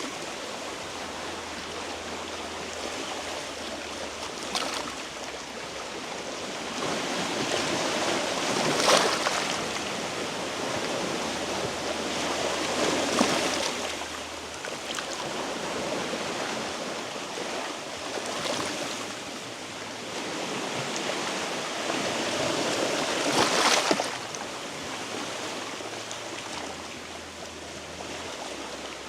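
Sea waves washing against a rocky shore, a steady wash that swells every four or five seconds as each wave surges in.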